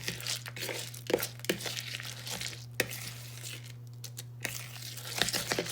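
Spoon stirring loose birdseed through a sticky gelatin mix in a bowl: irregular gritty rustling and scraping with scattered clicks of seed and spoon, over a steady low hum.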